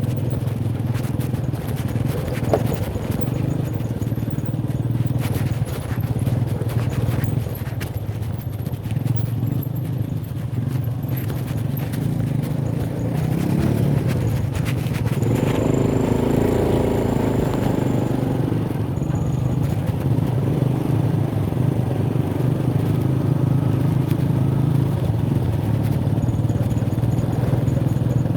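Motorcycle engine running steadily while riding over a rough path, with scattered knocks and rattles. For about three seconds past the middle the engine note is louder and higher.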